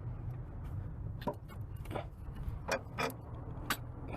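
A few sharp metallic clinks and clicks, about five spread over the few seconds, from loose parts or tools being moved and set down, over a steady low rumble.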